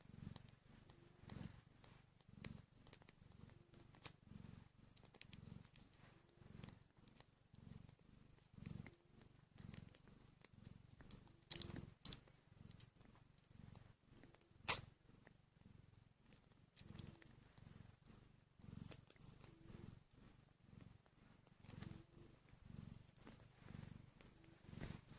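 Sphynx mother cat purring softly in a steady low pulsing rhythm while her newborn kittens nurse. About halfway through, two sharp clicks a few seconds apart.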